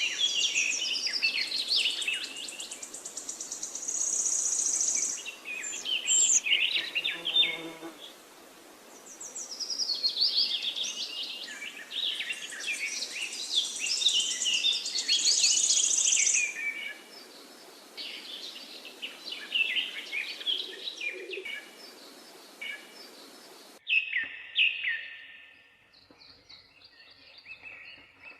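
Several songbirds singing and chirping at once, with rapid high trills and quick repeated notes overlapping throughout. Near the end the sound changes abruptly to a quieter stretch with fewer, separate calls.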